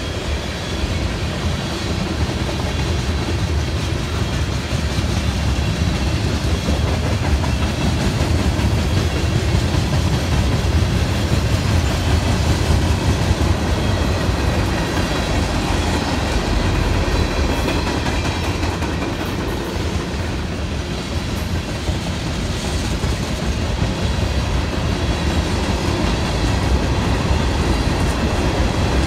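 Freight cars of a Norfolk Southern train rolling steadily past: covered hoppers, a tank car and gondolas, their steel wheels rumbling along the rails in a continuous, unbroken run.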